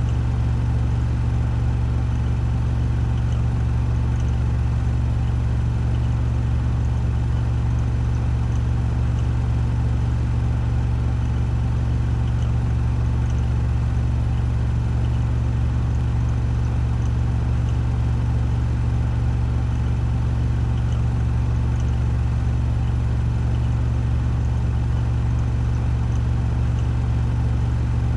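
Washing machine on its spin cycle, the drum spinning at 1400 rpm: a steady, unchanging low hum with a fainter whir above it.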